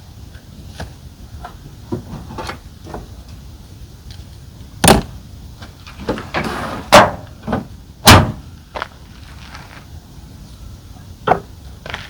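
Knocks, clicks and thuds from handling the folding roof top tent and its hardware, with three loud thuds about five, seven and eight seconds in.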